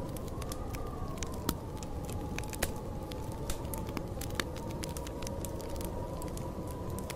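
Storm wind blowing with a slowly wavering whistle over a steady low rumble, while a wood fire crackles and pops with sharp snaps scattered throughout.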